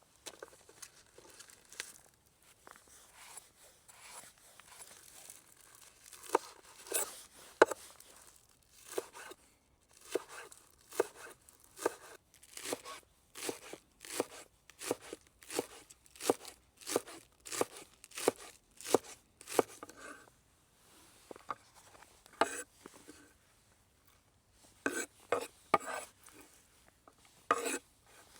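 Knife chopping food on a cutting board: a run of short sharp strokes, steady at about two a second through the middle, then in shorter bursts near the end.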